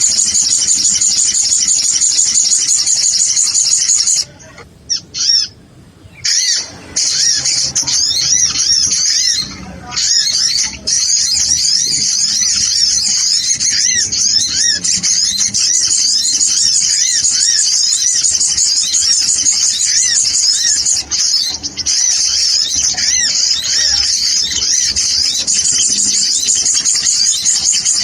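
Bird-lure recording of sunbirds (sogon) twittering: a dense, high-pitched stream of quick chirps, many calls overlapping. It breaks off briefly about four to six seconds in and again near ten seconds.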